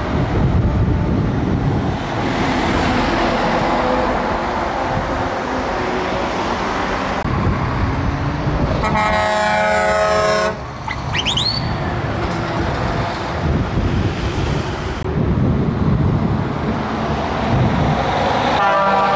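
Truck engines and traffic rumbling by, with a truck horn sounding for about a second and a half near the middle, a short rising whistle just after it, and another horn starting near the end.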